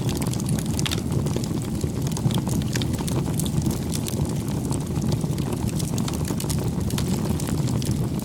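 Wood fire burning: a steady low rumble of flames with many quick crackles and pops throughout.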